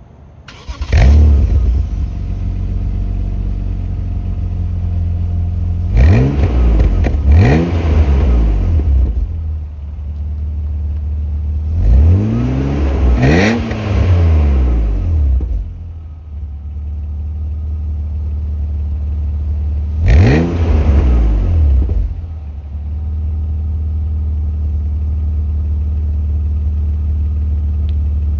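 2000 Alpina B10 3.3's 3.3-litre straight-six starting up about half a second in with a flare of revs, then idling steadily through its exhaust. It is blipped up and back down in three groups of quick revs, settling back to idle each time.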